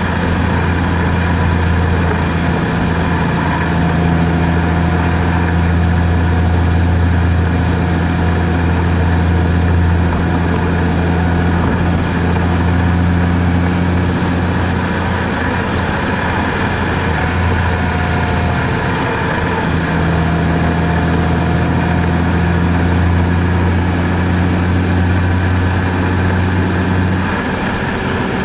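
A vehicle's engine and road noise while driving: a steady, loud low drone with a faint tone that wavers slightly, unchanged throughout.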